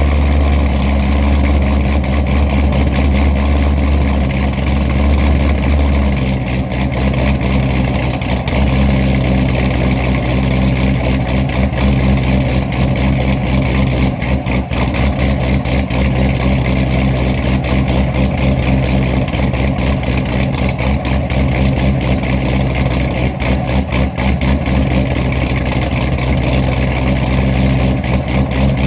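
Procharger-supercharged Corvette V8 idling with a choppy, lopey cam idle after a cold start. The idle steps down about six seconds in.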